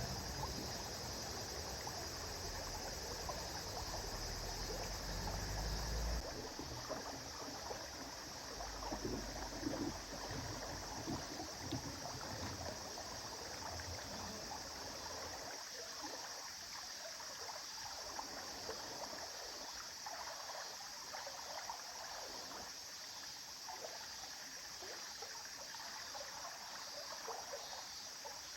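River water flowing steadily, a continuous rushing and trickling, with a low rumble under it through about the first half that drops away about halfway through.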